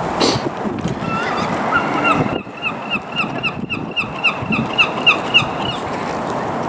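Wind buffeting the microphone, with a bird calling a quick series of short, evenly spaced chirps, about three or four a second, from about a second in until near the end.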